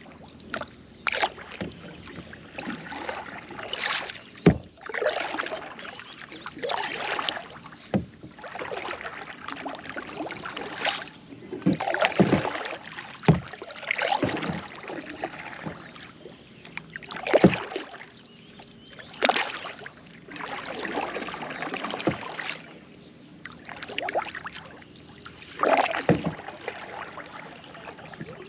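Kayak paddle strokes: the blades swishing and splashing through the water every second or two, with a few sharp knocks in between.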